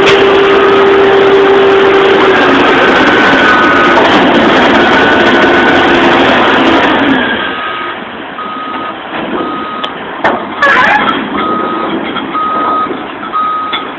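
Garbage truck running loudly, then its backup alarm beeping about once a second as it reverses. A loud clank sounds about three-quarters of the way through.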